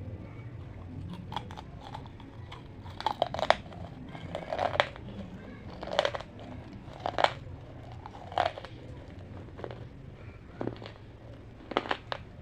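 Someone biting and chewing crunchy food: loud, crisp crunches come about once a second, with a pause in the middle and a few more near the end, over a steady low hum.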